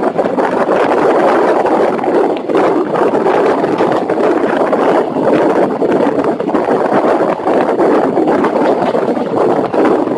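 Express passenger train running at speed, heard from on board: a steady rush of wheels on rails and passing air, with many faint rapid rattles.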